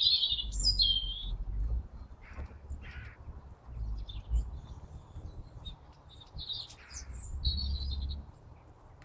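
Small birds chirping, a handful of short high calls with the loudest at the start and again about seven seconds in, over an on-and-off low rumble.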